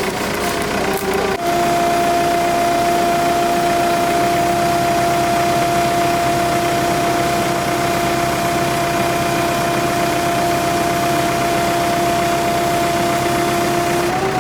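Excavator's diesel engine running steadily, with a steady whine held on one pitch; the whine wavers briefly and settles about a second and a half in.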